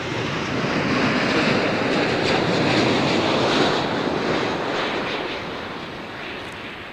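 Jet noise from a Singapore Airlines Boeing 787-10 Dreamliner arriving to land, its Rolls-Royce Trent 1000 engines passing by. The noise swells to its loudest about three to four seconds in, then fades.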